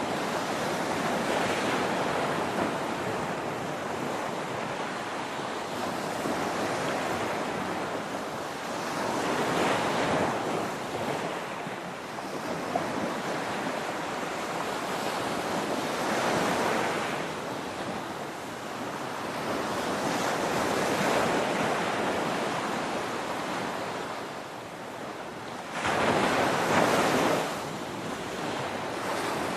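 Ocean surf: a continuous wash of waves breaking, swelling and easing every few seconds. A louder wave breaks suddenly near the end.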